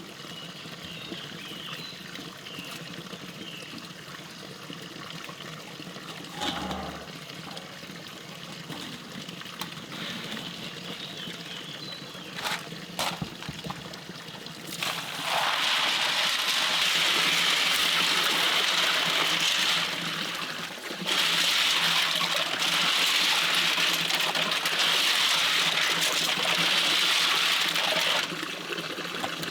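Water trickling quietly with a few light knocks, then running loudly in two long spells in the second half, the second about six seconds long after a brief break.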